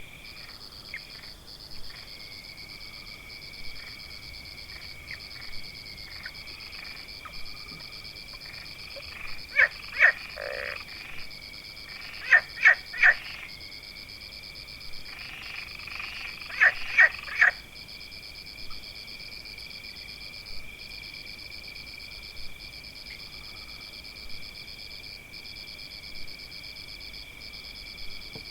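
Frogs croaking over a steady, high-pitched insect trill. The loudest sounds are three short runs of rapid croaks in the middle, with single faint calls every couple of seconds the rest of the time.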